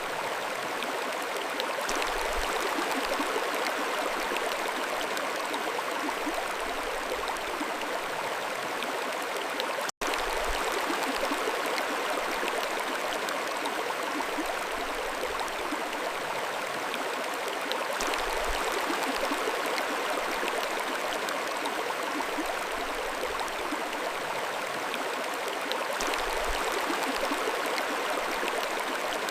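Mountain stream flowing steadily, an even, continuous water noise, with a momentary dropout about ten seconds in.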